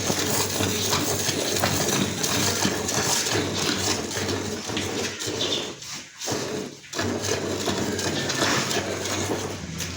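Cow being milked by hand, milk squirting into a metal pot in a steady run of streams, with two brief pauses about six and seven seconds in.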